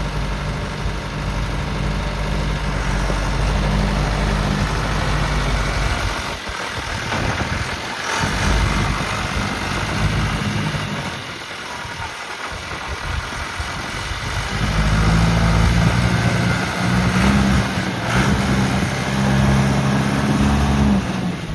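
John Deere backhoe loader's diesel engine running, its low drone easing off twice in the middle and coming back stronger for the last several seconds.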